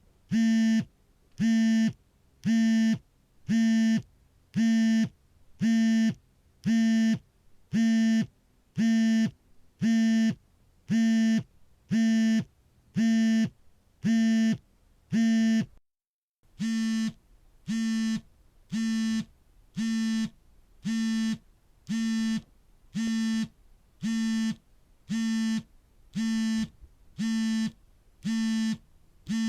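Mobile phone vibrating for an incoming call: its vibration motor buzzes in short, evenly spaced pulses, about three every two seconds, with one slightly longer pause about sixteen seconds in.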